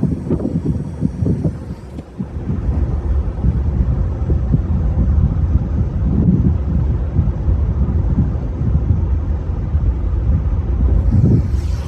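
Steady low rumble of a vehicle in motion, with wind noise on the microphone.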